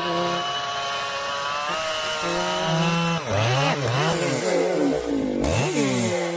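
Chainsaw engine running at a steady high speed, then revving up and down several times in the second half.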